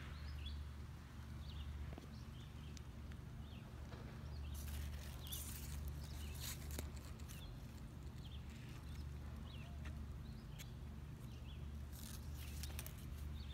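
Faint, scattered bird chirps over a steady low rumble, with bursts of short clicks and rustles about five seconds in and again near the end.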